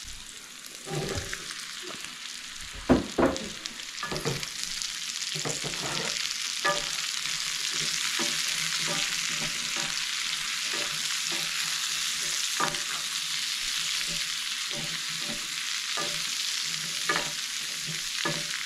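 Cubed kohlrabi sizzling with bacon and shallots in a cast-iron skillet, with a wooden spoon knocking and scraping against the pan as it is stirred. The sizzle gets louder about six seconds in, with a sharp clack from the spoon about three seconds in.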